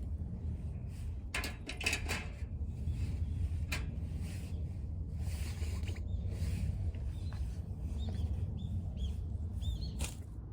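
Knocks and clatter of things being handled, with several short high chirps or squeaks in the second half, over a low steady rumble.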